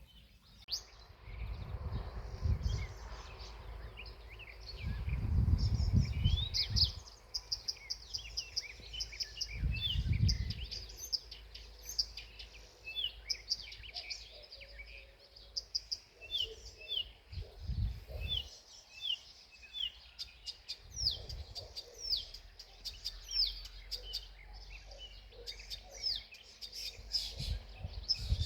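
Several small songbirds chirping and singing in quick, high, repeated notes throughout. Several times a loud low rumble rises under them and fades, around two, six, ten and eighteen seconds in.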